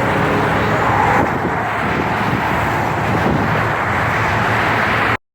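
Steady freeway traffic noise, vehicles rushing past close by; it cuts off suddenly near the end.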